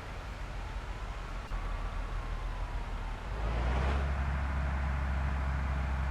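Diesel engine of a large bus running with a low rumble that grows louder about three and a half seconds in, as the bus pulls away under power, with a short hiss at that point. A faint tone glides slowly up and down in the first half.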